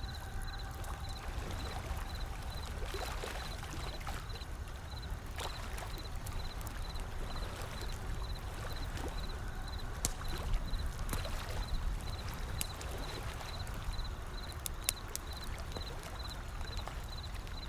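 Wood fire crackling with scattered sharp pops, over a steady low wash of ocean waves.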